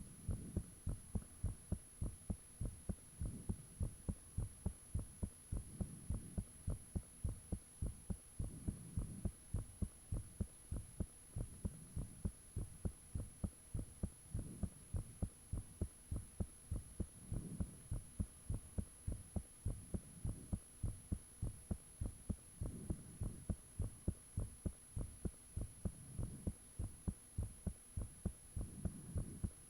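A person's heartbeat, loud and thumpy, beating steadily at about two thumps a second, with a low whooshing swell that comes back every few seconds. A thin, steady high-pitched whine runs underneath.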